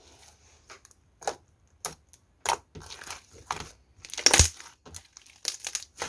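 Blue slime being squeezed and pressed by hand, giving a string of short, irregular clicks and pops, the loudest about four seconds in.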